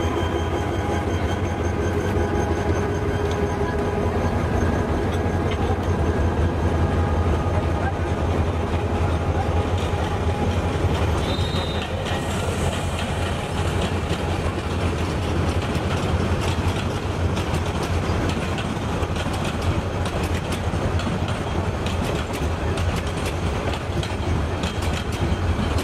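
Diesel locomotive pulling a passenger train out of the station, its engine drone passing in the first several seconds. The coaches then roll by at low speed, wheels rumbling and clacking over the rail joints, with a brief wheel squeal about eleven seconds in.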